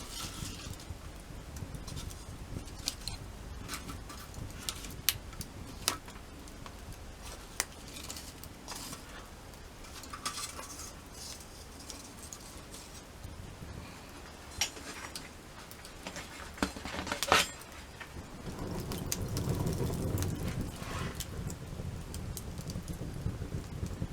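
Sticks and twigs clicking and knocking against each other as they are handled and laid for a campfire, with one loud snap about two-thirds through. About three-quarters of the way in, a low rushing noise starts.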